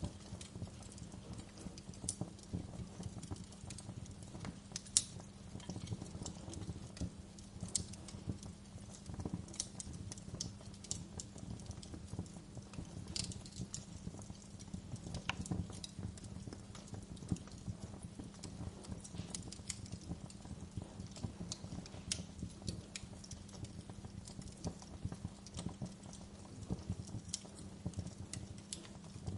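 Wood fire crackling in a fireplace, with irregular sharp pops and snaps over a low steady rumble; one louder pop about five seconds in.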